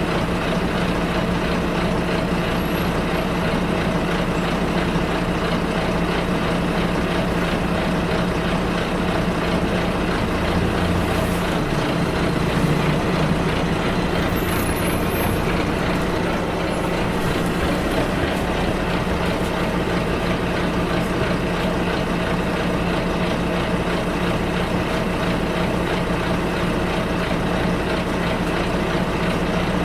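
Bus engine running steadily, heard from inside the bus with constant road and cabin noise; the low engine note shifts briefly about eleven to thirteen seconds in.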